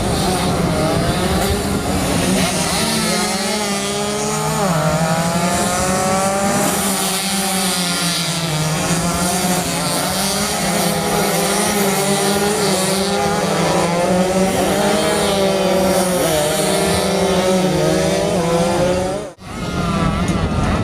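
Several two-stroke 130cc underbone racing motorcycles running at high revs, their engine notes rising and falling as they shift and corner. The sound drops out sharply for a moment near the end.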